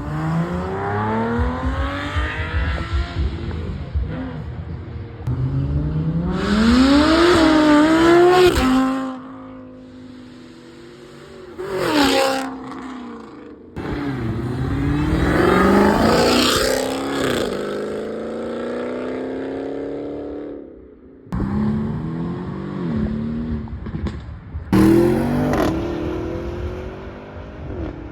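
Supercar engines revving and accelerating hard, one car after another, each pull rising steeply in pitch. The sound cuts abruptly between several separate pulls.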